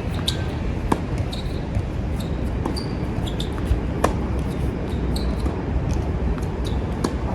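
Tennis ball being struck by rackets and bouncing during a rally, with sharp pops about a second in and about four seconds in and lighter clicks between them. Strong wind buffets the microphone with a steady low rumble.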